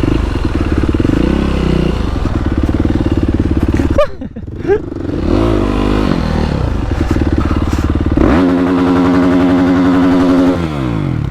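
Dirt bike engine being worked hard off-road. The throttle shuts sharply about four seconds in, then the engine revs up and down. Near the end it is held at high revs for about two seconds before falling away.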